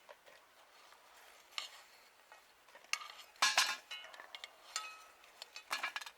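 Spoons scraping and clinking against plates as two people eat. Scattered irregular clinks, some briefly ringing, with the loudest cluster about halfway through.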